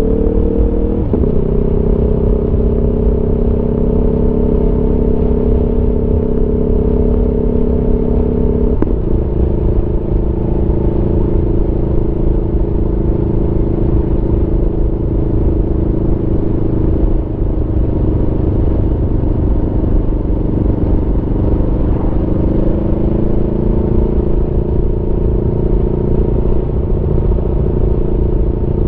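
Aprilia Tuono V4's V4 engine pulling along on the road, heard from the rider's seat. The engine note drops suddenly with an upshift about a second in and again near nine seconds, runs steadily, then climbs slowly near the end as the bike accelerates, over a low rumble.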